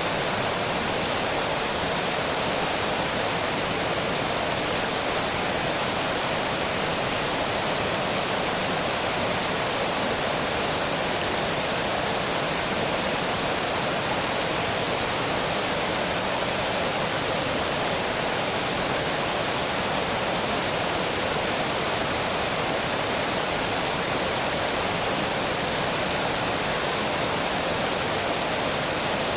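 Water pouring over a small dam: a steady, dense rushing, strongest in the upper range with little low rumble.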